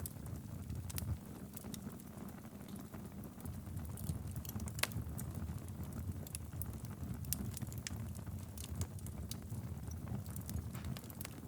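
Wood fire burning steadily in a fireplace: a low rumble of flame with frequent sharp crackles and pops at irregular intervals, one loud pop near the middle.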